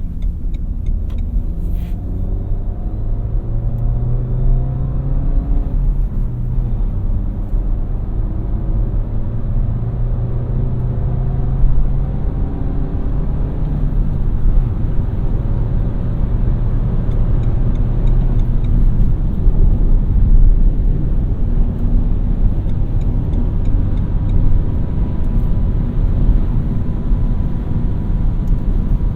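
Renault Mégane TCe 100's 1198 cc turbocharged four-cylinder petrol engine pulling the car along, its pitch climbing and then dropping back several times as it goes up through the gears, over a steady road and tyre rumble.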